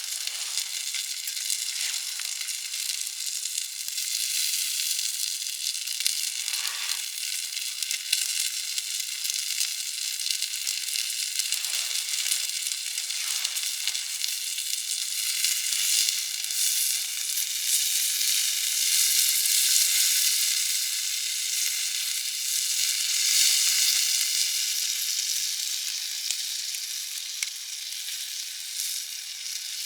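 Food sizzling over heat: a steady, high hiss that swells and eases a little over the half-minute.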